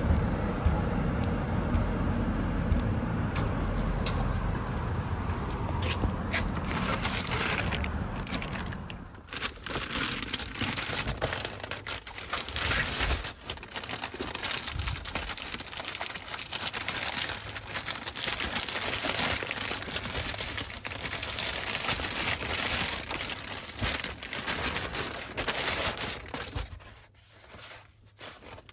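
A car's low engine and road rumble for about nine seconds, then plastic packaging crinkling, scraping and tearing as it is handled and opened.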